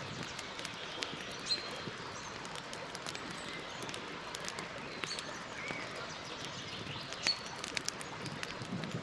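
Campfire burning: wood crackling with scattered sharp pops over a steady hiss. Short bird chirps come now and then, the loudest about a second and a half in and again near the end.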